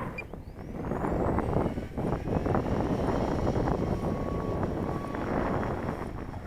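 Strong wind buffeting the microphone in gusts, a heavy, rumbling rush of noise.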